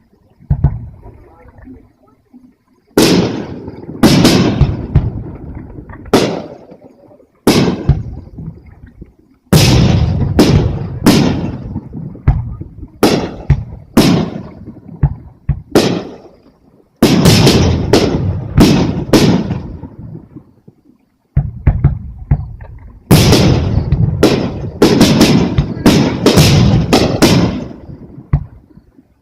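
Aerial firework shells bursting: loud sharp bangs, each trailing off in a rumbling echo. The first comes about three seconds in, then they follow in rapid volleys, with a brief lull after about twenty seconds before a denser barrage.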